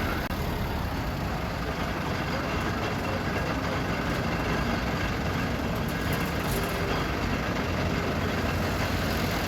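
Fire engines' diesel engines idling, a steady low rumble with street noise.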